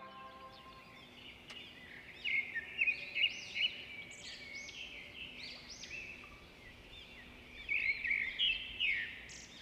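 Birds calling outdoors: two bursts of quick, repeated high chirps, one about two seconds in and another near the end, over faint outdoor background noise.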